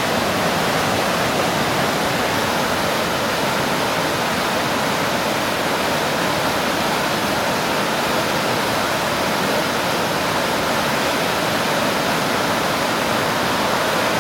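Rain-swollen mountain stream running as whitewater: a loud, steady rush of water.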